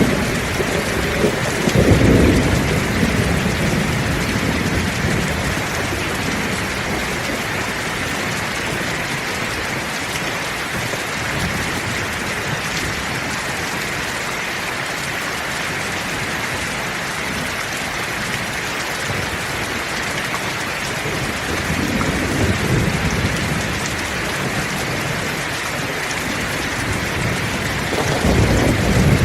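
Heavy rain falling steadily, with low rolls of thunder rumbling near the start, about two-thirds of the way through, and again near the end.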